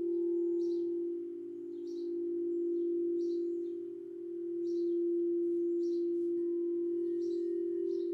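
Singing bowl ringing with a steady low hum that swells and dips a couple of times. Short high bird chirps repeat about once a second over it.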